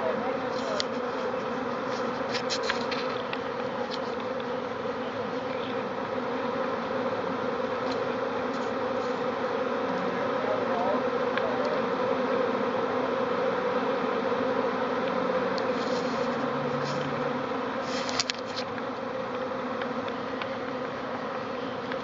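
A swarm of honeybees buzzing in a steady, continuous drone as it settles and moves into an empty hive. A few brief clicks sound over it, a couple about two to three seconds in and one near the end.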